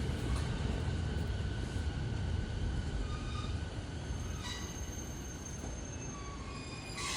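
Electric commuter train at the platform, slowing to a stop: a heavy low rumble with a steady whine of motor tones above it, fading slowly. A crow caws once at the very end.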